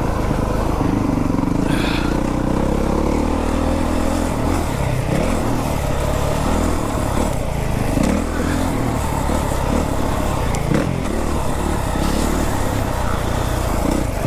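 Motocross dirt bike engine revving hard while being ridden, its pitch repeatedly rising and dropping as the rider opens and shuts the throttle.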